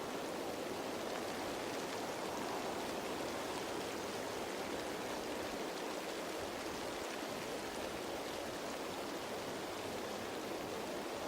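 Rain falling on leaves: a steady, even hiss of many drops that does not change.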